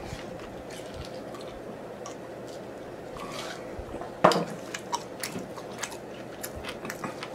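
Close-miked chewing of sticky chicken wings, with wet mouth clicks and smacks and one louder smack about four seconds in.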